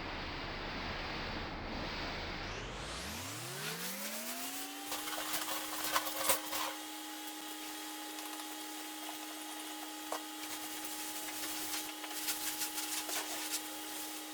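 A small electric motor spins up over about two seconds to a steady hum and keeps running at that pitch, with scattered clicks and knocks over it.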